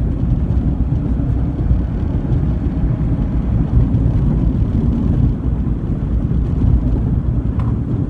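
Toyota RAV4 driving on the road: a steady low rumble of engine and tyre noise.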